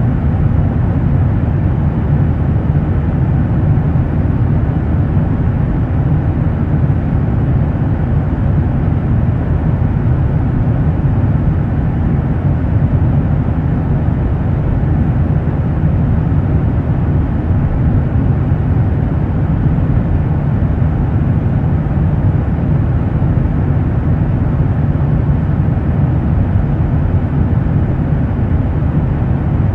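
Airliner cabin noise: a steady low rumble of the engines and airflow during the landing approach, unchanging throughout.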